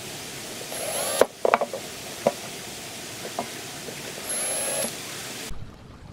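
A small power tool runs in two short bursts with a high whine, about a second in and again past four seconds, amid sharp clicks and knocks of handling parts. The loudest knock comes just after the first burst.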